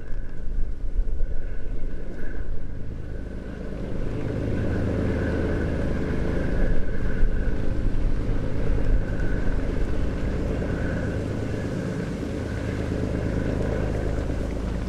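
Engine of a river sand-carrying boat running steadily, coming in stronger about four seconds in, with wind buffeting the microphone during the first seconds.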